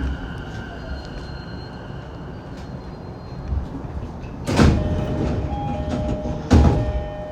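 Saikyo Line electric commuter train heard from inside the car: a steady whine fades away in the first few seconds over a low rumble as the train comes to a stop. About four and a half seconds in, and again about two seconds later, comes a loud burst of hissing, with a two-note electronic chime sounding between them: the doors opening at a station.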